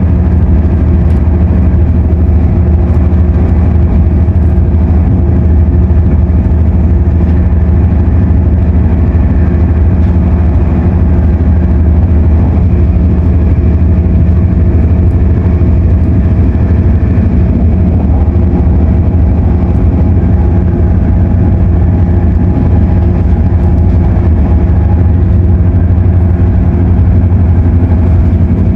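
Loud, steady drone inside the cabin of an MTR Airport Express CAF train running between stations: rolling and running noise with a steady low hum, mixed with the car's noisy air conditioning.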